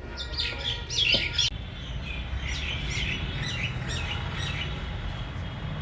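Small birds chirping in two quick runs of short, high, sliding notes, the first a little louder, over a low steady rumble.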